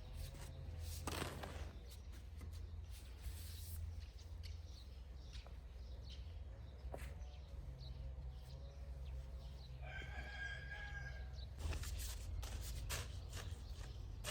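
A rooster crows once, a single call of about a second and a half starting about ten seconds in, over a steady low rumble and scattered clicks and rustles.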